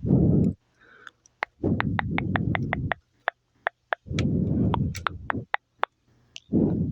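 Close-miked ASMR mouth sounds: runs of sharp wet clicks and pops, several a second, alternating with four low muffled rumbling bursts of about a second each.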